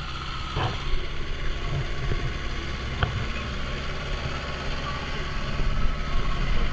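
Mahindra Yuvo 575 DI tractor's diesel engine running steadily, with two short sharp knocks, about half a second and three seconds in.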